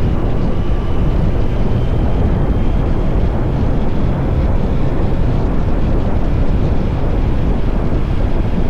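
Kawasaki Z900 SE inline-four with an SC-Project CR-T exhaust running at a steady cruise, largely buried under wind rushing over the microphone.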